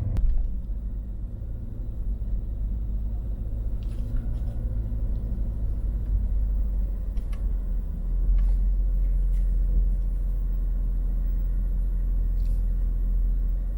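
A car driving at low speed, heard from inside the cabin: a steady low rumble of engine and road noise that grows louder about eight seconds in.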